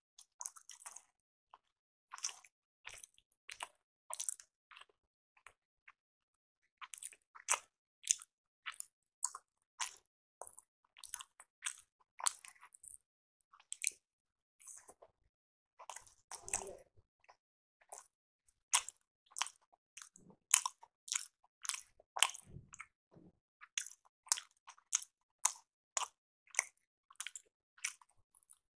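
Close-miked mouth sounds of a person chewing rice appe (paniyaram): short, wet smacking clicks about two a second, with a longer, deeper sound about sixteen seconds in.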